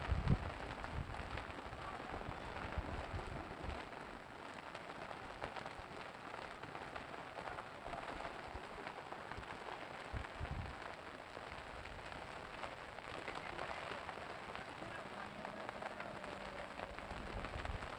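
Floodwater flowing, a steady even hiss of rushing water. There is a brief low rumble about ten seconds in.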